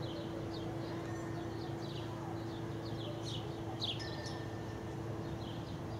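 Small birds chirping, many short, quick, high chirps that slide down in pitch, over a steady low hum.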